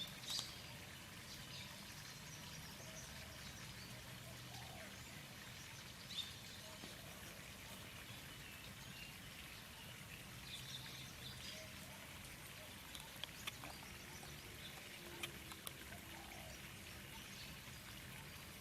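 Oriental magpie-robin giving scattered short chirps and whistled notes, spread out with gaps, over a steady low background hum, with a few faint sharp clicks in the second half.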